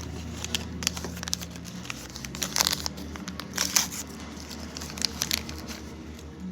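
Small plastic wrapper crinkling and tearing as it is opened by hand, with irregular crackles that bunch up in a few stronger spells.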